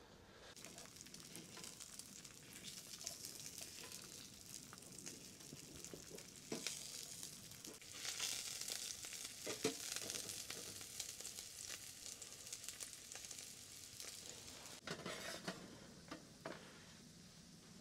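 Food sizzling in a frying pan: a faint, steady crackling hiss that swells around the middle and eases off toward the end.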